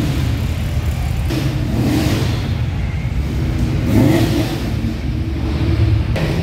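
Car engines and exhausts rumbling as show cars drive slowly past, with a louder rise about four seconds in.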